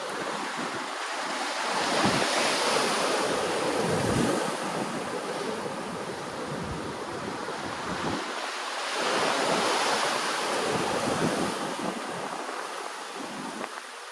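Ocean waves breaking and washing on the shore, the surf swelling twice, about seven seconds apart, over a steady wash of sea noise.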